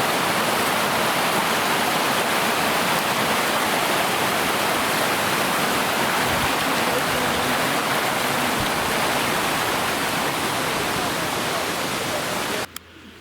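Steady, loud rush of falling water from a waterfall, cutting off suddenly near the end.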